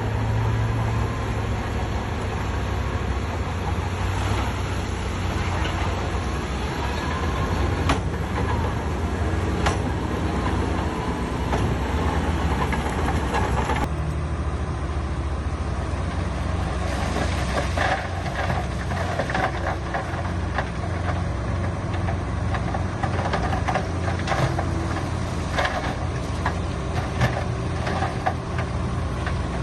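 Heavy diesel machinery running steadily with a deep engine drone; from about halfway on, frequent clanks and rattles.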